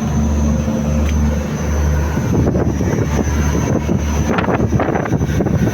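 A boat's engine running with a low, steady hum that pulses slowly and evenly. From about two seconds in, wind buffets the microphone in rushing gusts that become the loudest sound.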